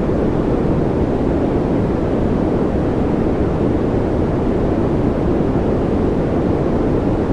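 Steady, unchanging white-noise track, deep rather than hissy, with most of its energy low and little above a couple of kilohertz.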